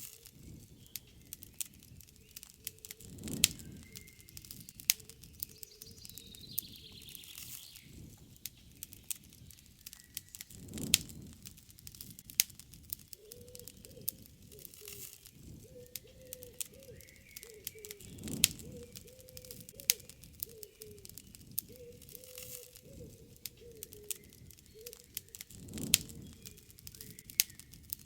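Wood campfire crackling with frequent sharp pops, the flames swelling into a low rush about every seven or eight seconds. Birds call in the background.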